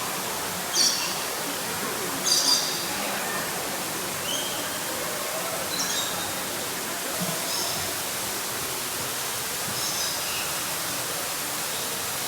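Birds chirping with short high calls every second or two, the loudest two about one and two seconds in. A steady rushing hiss runs underneath.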